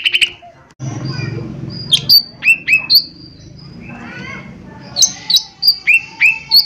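Lesser green leafbird (cucak ijo mini) singing: sharp, quick notes that drop steeply in pitch, coming in a cluster about two seconds in and another near the end, with softer warbling between them.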